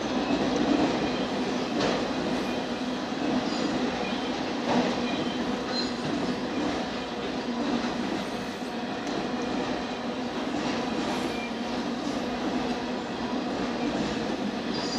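Union Pacific manifest freight train's autorack cars rolling past: a steady rumble and rattle of steel wheels on rail, with occasional sharp clicks at rail joints and short faint high wheel squeaks.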